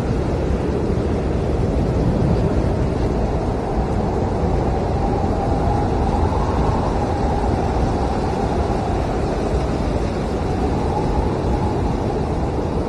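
Blizzard wind howling steadily, a deep rush with a faint whistling tone that slowly rises and falls.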